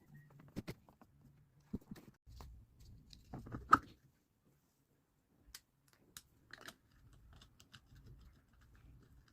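Small parts or tools being handled on a workbench: scattered light clicks and knocks, the loudest a sharp knock a little under four seconds in.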